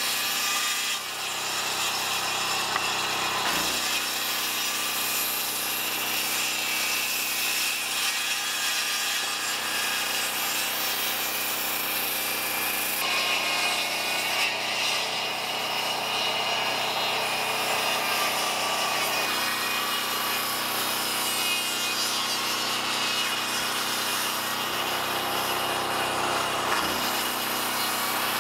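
Saw cutting through lumber, running steadily with a change in its sound about 13 seconds in.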